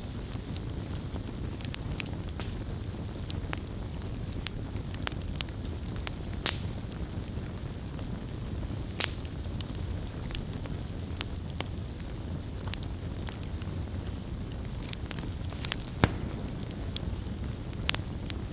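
Campfire crackling: irregular sharp pops and snaps of burning wood over a steady low rumble, with a handful of louder pops scattered through.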